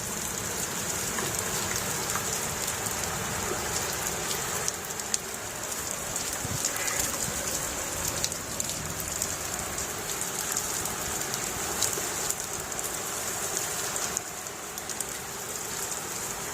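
Heavy rain falling steadily, with scattered sharper hits of drops.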